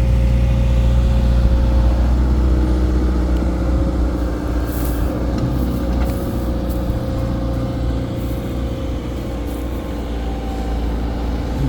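Dump truck's engine running steadily with a deep rumble, heard from the truck, with a few short high hisses around the middle.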